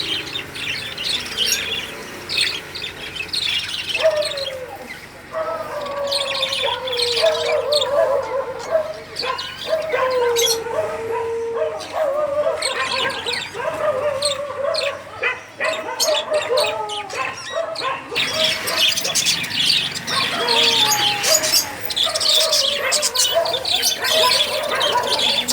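A flock of caged lovebirds and budgerigars chirping and chattering continuously. Rapid high chirps overlap throughout, with a lower wavering, gliding call running through much of it.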